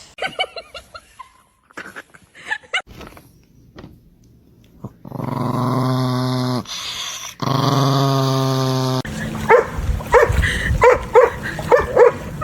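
A dog vocalising: a few short calls, then two long, steady low growls, then a quick run of short barks, about three a second, near the end.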